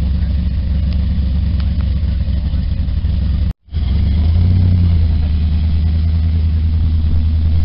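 Chevrolet Nova's engine running at idle with a deep, steady rumble. After a brief cut in the sound a little over three seconds in, it comes back louder as the car starts to move off.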